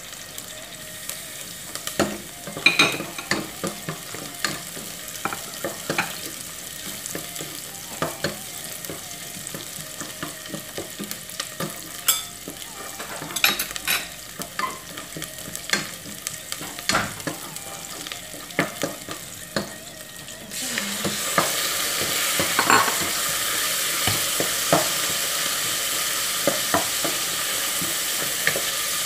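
Sliced onions frying in oil in a non-stick pot, a steady sizzle with the clicks and knocks of a plastic spatula stirring and scraping against the pot. A little past two-thirds of the way in the sizzle suddenly gets louder, as strips of raw chicken breast go into the hot pot.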